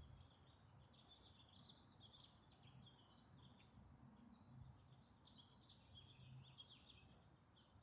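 Faint birds chirping and twittering: many short, high calls over near silence, with a single brief click a little past the middle.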